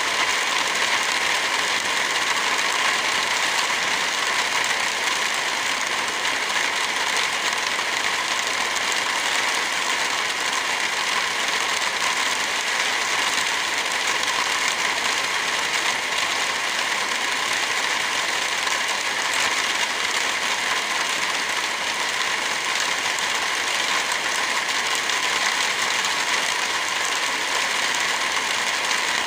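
Steady rain, an even hiss, mixed with a wood fire crackling.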